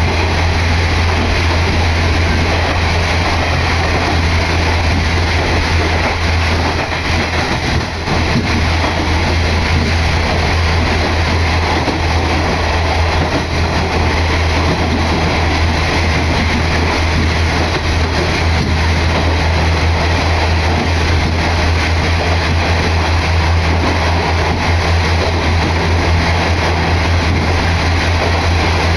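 Inside a diesel railcar in motion: a steady low engine drone under a constant rumble of wheels on rail.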